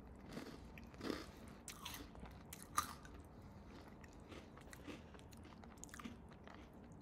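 Chewing a mouthful of Cap'n Crunch cereal in milk: faint, irregular crunches, with one sharper click a little under three seconds in.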